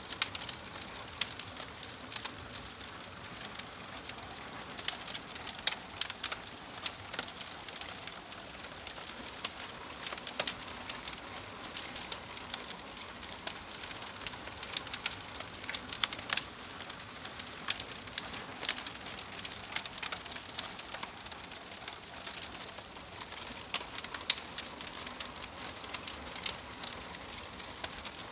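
Wood fire crackling: a steady soft hiss with frequent irregular sharp pops and snaps.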